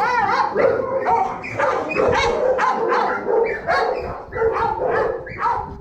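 Shelter dogs barking and yipping in the kennels, short barks coming thick and fast and overlapping, thinning out near the end.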